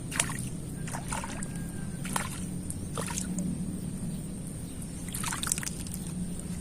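Water sloshing and splashing in short irregular bursts, over a steady low hum and a thin, steady high whine.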